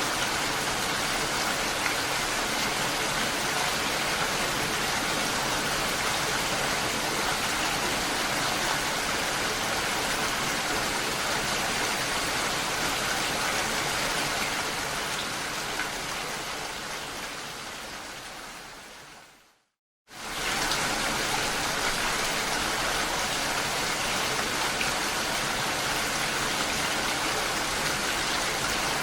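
Steady rain. It fades away over several seconds to a moment of silence about twenty seconds in, then quickly comes back at the same level.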